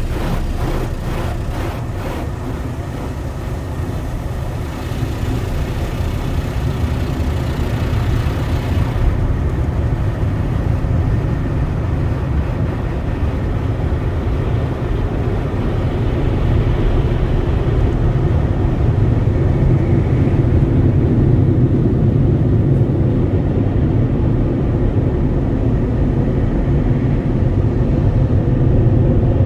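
Automatic tunnel car wash equipment heard from inside the car's cabin. A hissing wash runs over the car for about the first nine seconds and stops suddenly. A steady low rumble continues throughout and grows a little louder in the second half.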